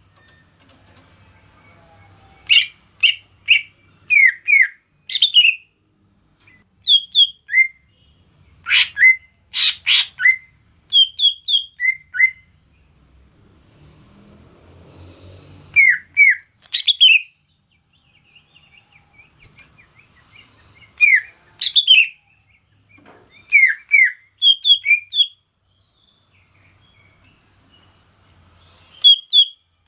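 Greater green leafbird (cucak ijo) calling in short, sharp whistled chirps and quick downward slurs, in bursts of two to five notes every second or two. Behind it a steady high-pitched hiss swells and drops back every few seconds.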